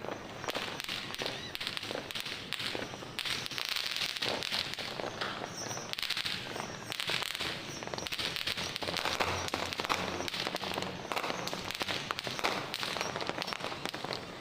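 Many fireworks and firecrackers going off at once, a dense, continuous crackle of overlapping pops and bangs.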